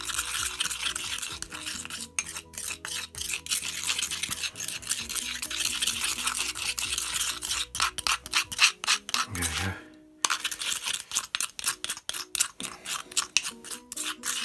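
A small spoon stirring and scraping thick watercolour paste (ground pigment, gum arabic and honey) around the inside of a stone mortar. It is a fast run of gritty scrapes and clicks, with a brief pause about ten seconds in.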